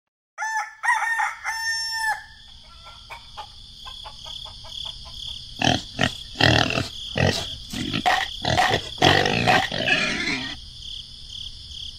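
Animal calls: a few short pitched calls in the first two seconds, then a run of louder, rougher calls from about halfway through.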